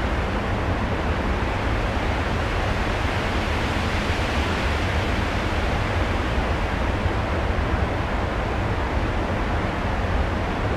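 A steady rushing noise with a deep rumble underneath, wind-like and unbroken, played over the stage sound system as a storm soundscape.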